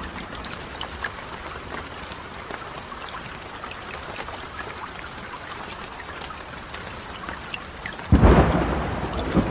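Rain falling steadily, with single drops ticking now and then. About eight seconds in, a sudden loud thunderclap breaks and rumbles on, fading slowly.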